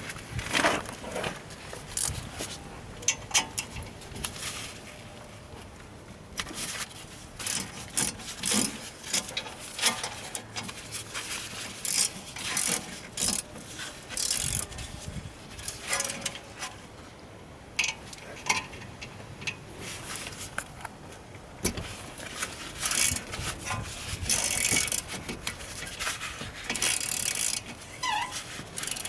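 Hand tools working on metal brake parts: irregular short clinks, rattles and scrapes of steel on steel, with a few louder knocks.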